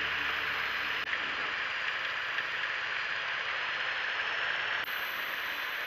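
A steady hiss of background noise, with no engine note or voice standing out.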